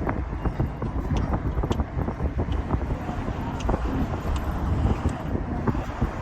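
Wind buffeting the microphone: a heavy, uneven low rumble with scattered small clicks.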